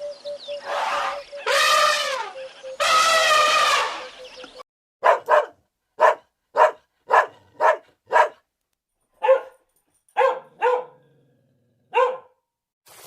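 A dog gives several long, drawn-out calls that bend in pitch, then about a dozen short, sharp barks with pauses between them.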